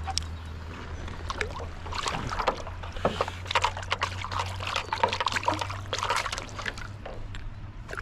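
Water splashing and sloshing around a kayak, with scattered knocks and clicks. It is busiest from about two seconds in until about seven seconds in, over a low steady rumble.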